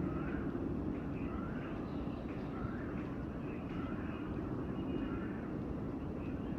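Distant jet airliner engines, a steady low rumble that holds an even level, with birds calling faintly over it.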